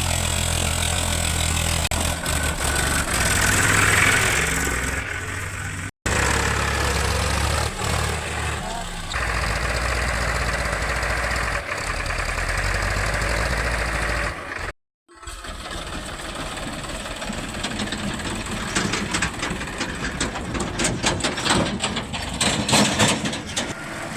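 Diesel engines of a loader and tractors running steadily at work, the sound breaking off briefly twice. In the later part, irregular clattering and knocks sound over the engine noise.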